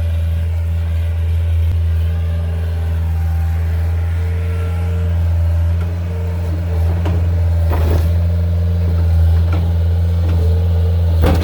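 Diesel engine running steadily at a constant speed, with two sharp knocks, about eight seconds in and near the end, from a skid-steer bucket being knocked to shake sand out of it.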